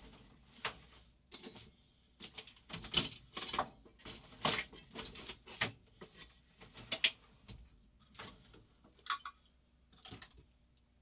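Irregular clicks, clinks and clatters of small tools and parts being picked up and handled, busiest in the middle and thinning out near the end.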